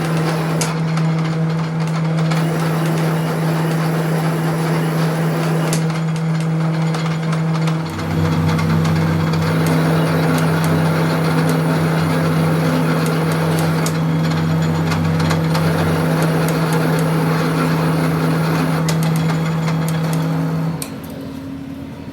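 A motor-driven workshop machine running: a steady electric-motor hum over a rushing hiss, with a deeper hum joining about a third of the way in for several seconds and a few light clicks, until the machine winds down shortly before the end.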